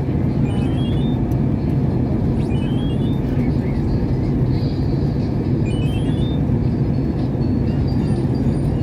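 Steady rumble of an airliner's engines and airflow heard inside the passenger cabin. A faint short run of rising high tones recurs about every three seconds.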